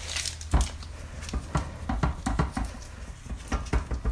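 Irregular light taps and clicks of kitchen handling as food is prepared, with a louder thump about half a second in.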